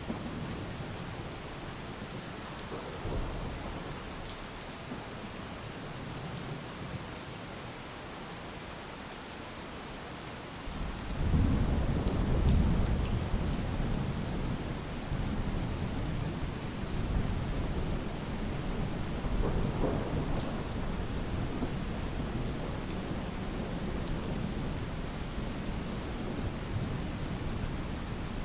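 Steady rain falling, with a low rumble of thunder that breaks in suddenly about eleven seconds in and rolls on.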